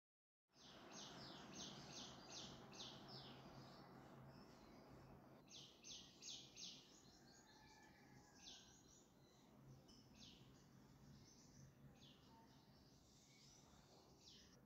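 Faint background ambience: birds chirping in quick runs of short, high chirps over a low steady hum.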